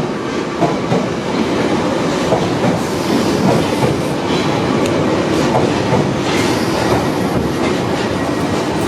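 London Underground Piccadilly line tube train running on the track, a steady noise of wheels on rails.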